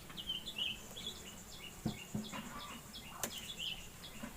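Birds chirping: a steady run of short, high chirps, several a second, with a single sharp click about three seconds in.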